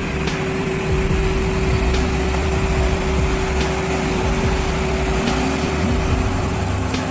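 A vehicle engine running steadily under heavy rumbling noise, with a steady hum held through most of it and a few faint clicks.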